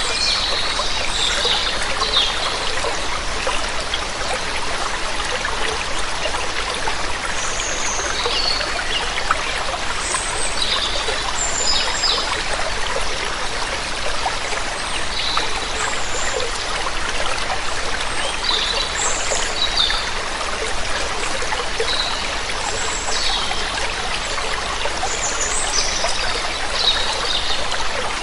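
Steady rush of falling water from a small waterfall or stream, with birds chirping in short high calls every second or two over it.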